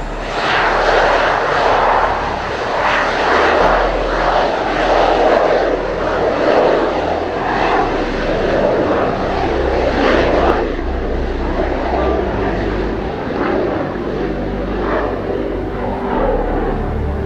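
Kawasaki T-4 jet trainer's twin turbofan engines at takeoff power after brake release, a loud, surging jet roar that eases somewhat after about ten seconds as the aircraft rolls away. Strong gusty wind buffets the microphone with a low rumble.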